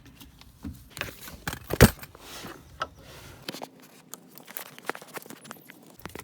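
A new rubber radiator hose and its clamps being handled and worked into place in the engine bay: scattered clicks and rubbing, with one sharp knock a little under two seconds in.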